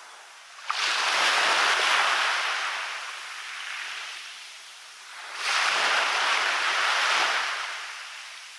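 Waves breaking on a beach, twice: the first surge comes in sharply under a second in, the second about five seconds in, and each washes up and then fades back.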